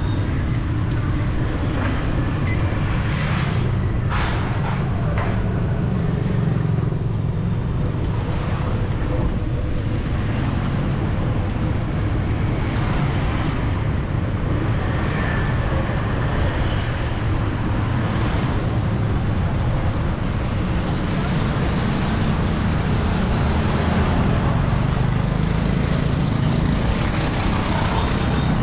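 Busy city street traffic: a steady wash of passing vehicle engines and tyres, with a few sharp clicks about four seconds in.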